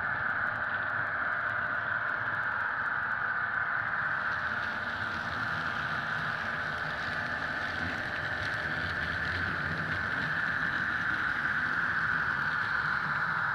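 HO-scale model diesel locomotive's Soundtraxx Tsunami sound decoder playing a steady EMD diesel engine sound through its small speaker.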